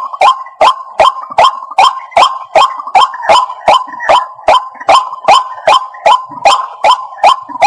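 White-breasted waterhen calling: a fast, even series of short, sharp notes, about two and a half a second.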